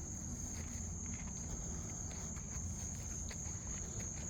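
Night insects trilling in a steady, unbroken high chorus, with soft footsteps and a low rumble beneath.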